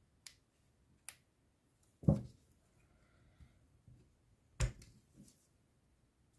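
A few sharp, separate clicks and knocks of small hand tools and parts being handled on a workbench, the loudest about two seconds in and another strong one near the end.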